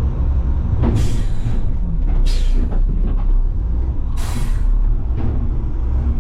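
Diesel engine of a Mack front-load garbage truck running with a steady low rumble while it manoeuvres, with three short hisses of compressed air from the truck's air system about one, two and four seconds in.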